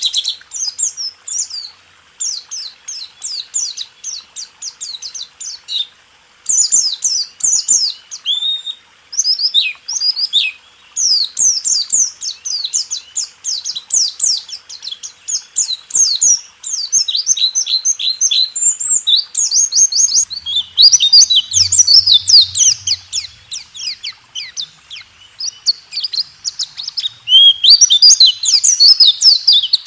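A white-eye (pleci) singing its 'rool tembak' song: long runs of rapid, high-pitched chirps and fast trills in phrases with short pauses between them, over a faint steady hiss.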